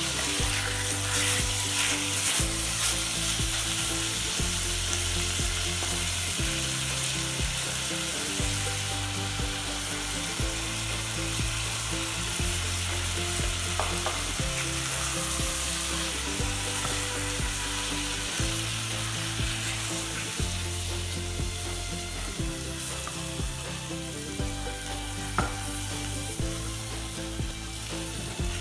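Cubes of veal and sliced onion sizzling as they brown in oil and butter in a stainless steel pot, stirred and scraped with a silicone spatula.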